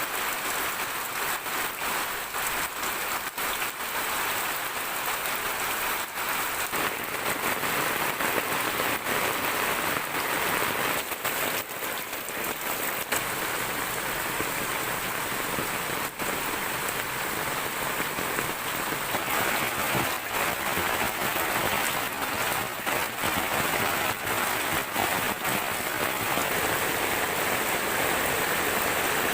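Steady rain falling, with many separate drop hits standing out sharply above the even hiss.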